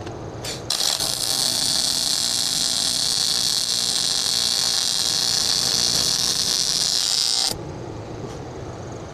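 A high-speed rotary power tool running for about seven seconds, a steady high hissing whine that starts and stops abruptly, as the saddle part is trimmed.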